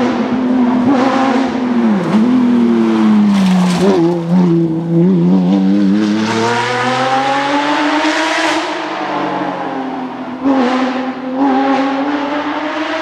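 Porsche flat-six rally car engine revving hard and accelerating through the gears, the pitch climbing and then dropping sharply at each shift: about 2 s in, about 4 s in, and again near the 10.5-second mark after a long pull.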